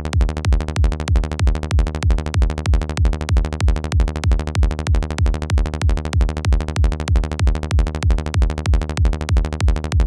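Electronic kick-and-bass loop: a synthesized kick drum, four on the floor at about two beats a second, each hit a low thump dropping in pitch, with a rolling synth bass line in quick even notes between the kicks. It stops near the end.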